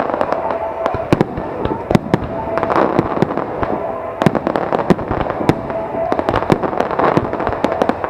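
Aerial fireworks display: shells bursting in many sharp bangs in quick, irregular succession over a continuous rumbling haze.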